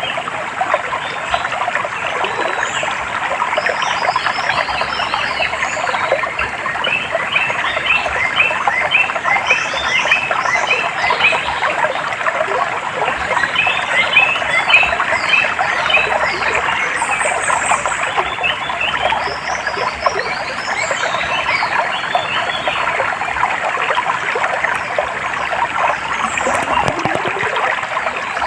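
Running stream water under a dense chorus of short, rapidly repeated chirping animal calls, which come in runs.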